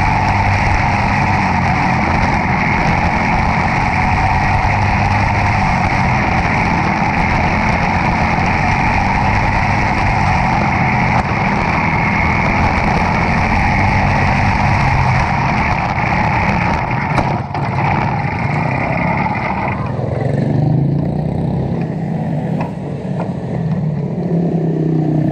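Briggs & Stratton Animal four-stroke kart engine running hard at racing speed with wind rush, recorded onboard. About 20 seconds in, the sound drops to a lower, rougher engine note as the kart slows.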